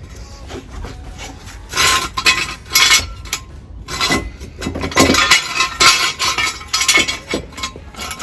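Metal scraping and clinking in irregular bursts, from hand work with tools and metal parts on a car exhaust.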